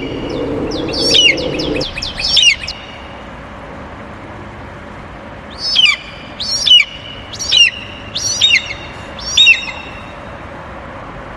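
Birds chirping: short high calls that sweep down in pitch, two about a second or two in, then five in a row about a second apart in the middle. A low hum underneath cuts off about two seconds in.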